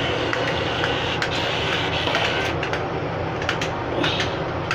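A small motor whirring steadily, with scattered light clicks and knocks.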